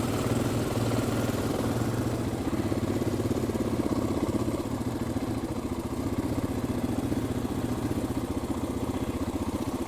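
KTM 500 EXC-F dirt bike's single-cylinder four-stroke engine running at steady, low revs with an even, fast pulsing beat.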